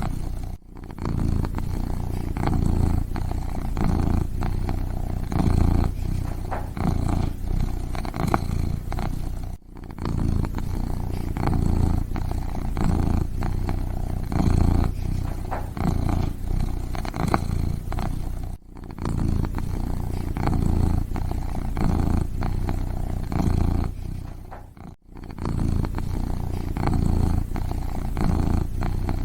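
A kitten purring continuously in a low, pulsing rumble, broken by four brief pauses.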